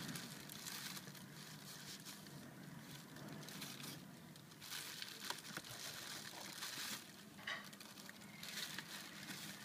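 Faint rustling and scraping with a few light clicks around the car's front bumper, over a steady low hum.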